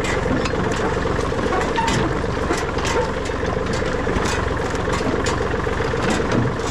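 Tractor engine running steadily, with a constant drone and scattered light clicks and rattles over it.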